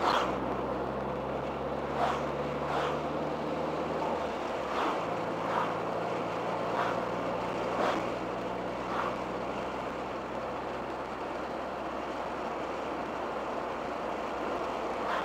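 1987 Dodge Daytona Shelby Z's turbocharged 2.2-litre four-cylinder cruising through its aftermarket muffler, heard from inside the cabin as a steady engine drone under road and wind noise; its note changes about four and a half seconds in. Short sharp ticks come about once a second for the first nine seconds.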